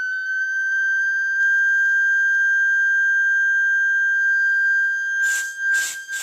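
Steady high-pitched test tone from a cymatics plate setup (a Chladni plate driven by a tone generator). Near the end, a few short hissing bursts come in over it.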